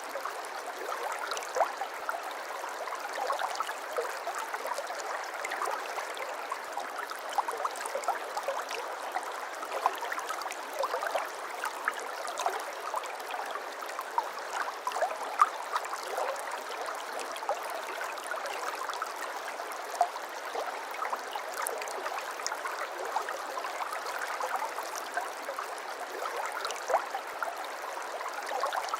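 Small stream flowing steadily, water babbling with many small quick splashes.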